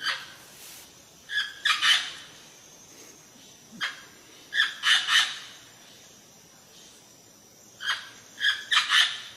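Parrot squawking in short, shrill calls that come in clusters of two to four, about one cluster every three seconds.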